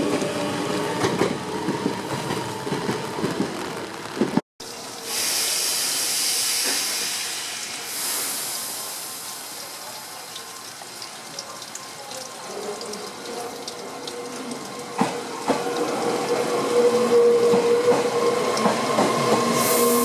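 Meitetsu electric train at a station platform: traction motor whine and running noise, broken by a loud hiss of air for about three seconds after a cut, then a rising motor whine building near the end as a train moves off or pulls in.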